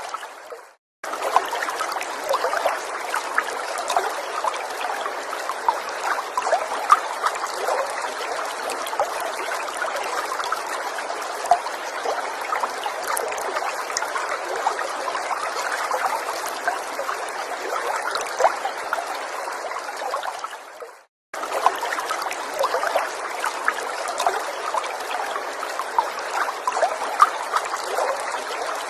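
Small forest stream trickling and babbling steadily, with many small splashes and drips. The sound fades away and drops out for a moment just after the start and again about two-thirds through, each time coming back abruptly.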